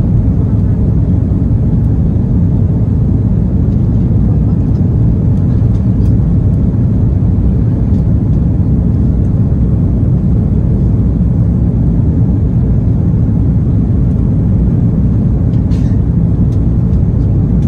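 Steady, loud low rumble of an Airbus A330-300's jet engines and airflow, heard inside the cabin.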